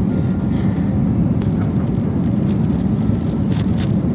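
Steady drone of a jet airliner's cabin in flight, with a few faint clicks near the end.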